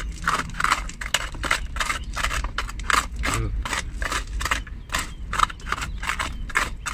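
A hand tool scraping and chipping at gravel and concrete in quick, irregular strokes, about three or four a second.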